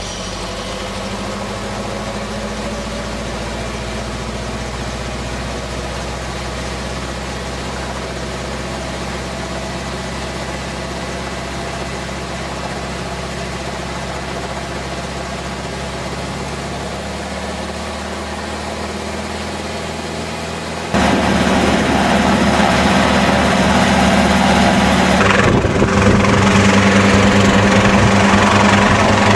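Helicopter engine and rotor running steadily. About 21 s in, the sound jumps abruptly louder, with much more rushing noise, and shifts again a few seconds later.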